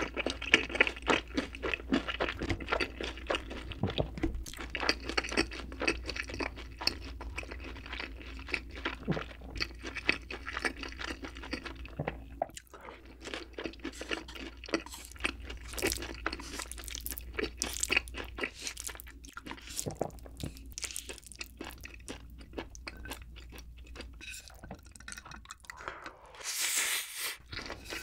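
Close-miked chewing of a full mouthful of food, with many quick, wet, crunchy clicks. Near the end comes a hissing slurp of black bean noodles.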